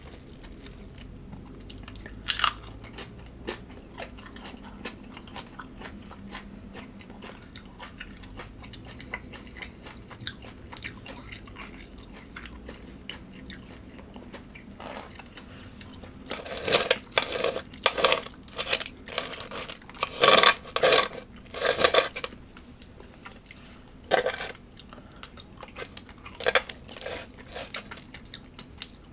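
A person chewing crunchy food close to the microphone. Quiet chewing runs throughout. There is one sharp crunch early, a run of loud crunching bites a little past the middle, and a few single crunches near the end.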